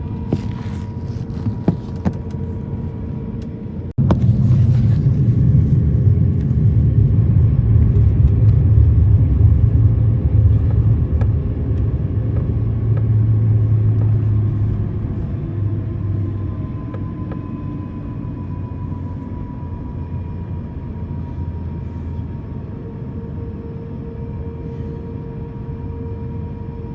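Airbus A350-1000 cabin noise on the ground: a steady low rumble with faint steady whining tones. About four seconds in the rumble jumps abruptly louder, then eases back down over the second half.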